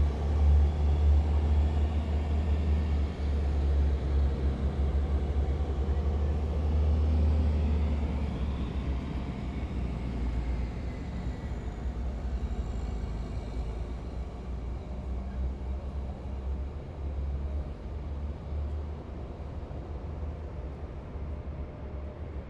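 Heavy military vehicles driving past in a column: a deep, steady engine rumble, loud at first and fading gradually over the second half as they move away.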